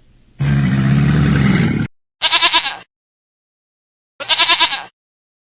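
Two short quavering bleats from a farm animal, about two seconds apart, each under a second long. Before them comes a low animal call lasting about a second and a half.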